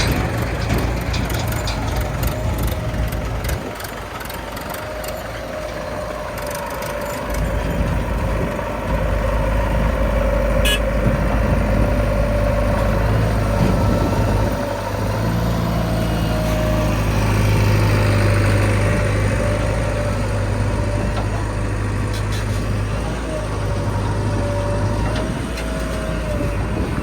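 Heavy diesel machinery engines running. The note drops about four seconds in, picks up again about four seconds later and is strongest in the middle of the stretch.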